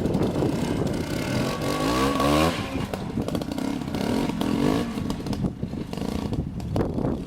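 Montesa Cota single-cylinder two-stroke trials motorcycle engine running on an RM Lightning CDI electronic ignition, revved up twice: once about two seconds in, and again around four seconds.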